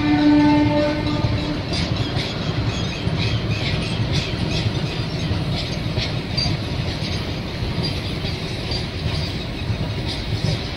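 A train passing close by, its wheels clattering rapidly over the rail joints over a steady rumble. A locomotive horn sounds for about the first second and a half.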